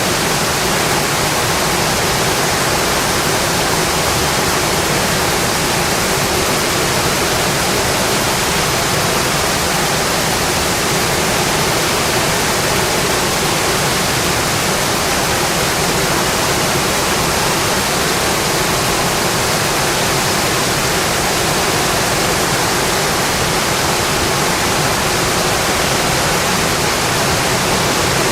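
Steady rain on a windowpane, an even, unbroken hiss that holds level throughout.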